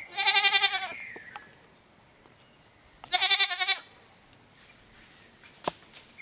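Goat bleating twice: two wavering calls, each under a second long, about three seconds apart.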